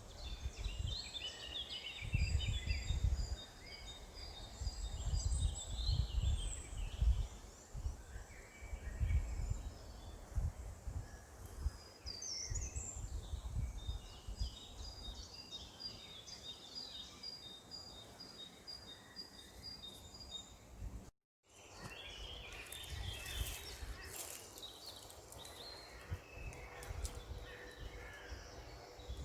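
Several birds singing outdoors, overlapping chirps and trills of fast repeated high notes. A low gusty rumble of wind on the microphone comes and goes in the first half, and the sound cuts out completely for a split second about two-thirds of the way through, where the recording is spliced.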